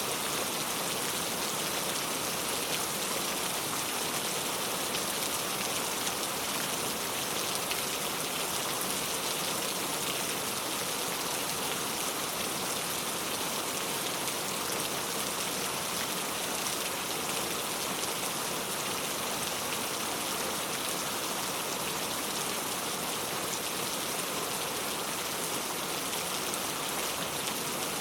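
Heavy rain falling steadily: a dense, even hiss that holds the same level throughout, with no thunder.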